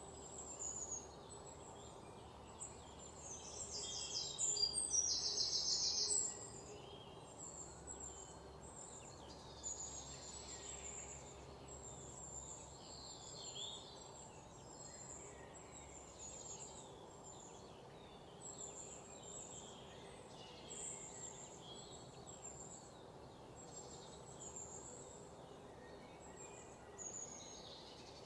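Small birds chirping intermittently over a faint steady hum, with a louder rapid trill from about four to six seconds in.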